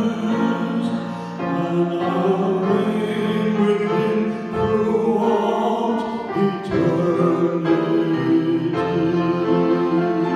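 Live singing of a praise hymn with musical accompaniment, with notes held long in several places.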